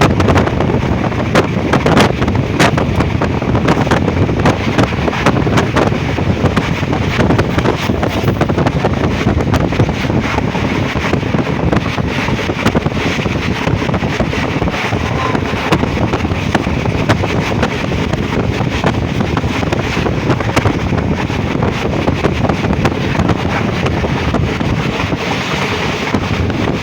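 Moving train's running noise heard from on board: a steady rumble of wheels on track with wind buffeting the microphone and many small clicks and knocks throughout.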